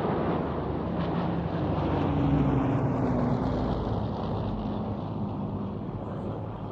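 Rolls-Royce Merlin V12 piston engines of Spitfires and Hurricanes flying past, growing loudest about two to three seconds in and then fading as the engine note drops in pitch.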